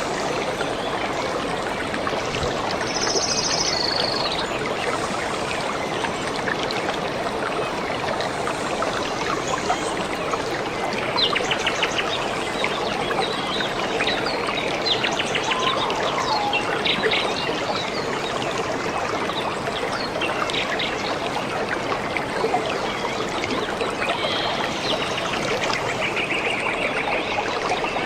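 A stream running steadily, with small birds chirping and trilling over it now and then.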